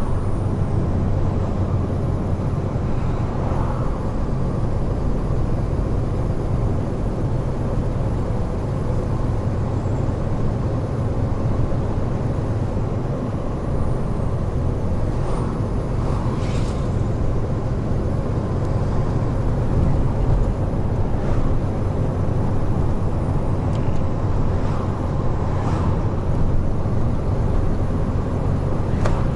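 Large truck's diesel engine and tyre noise, running steadily at cruising speed on an expressway.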